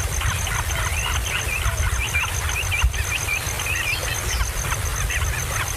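Small birds chirping rapidly, with short wavering high calls throughout, over a steady low rumble and a faint high-pitched pulsing tone repeating about five times a second.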